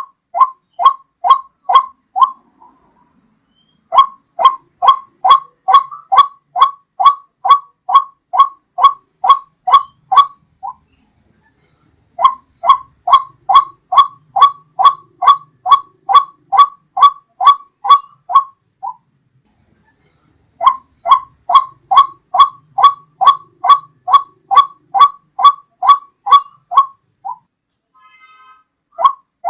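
White-breasted waterhen (ruak-ruak) calling: loud, evenly repeated 'kwak' notes about two and a half a second, in four bouts of a few seconds each with short pauses between. It is a recorded lure call used to attract waterhens.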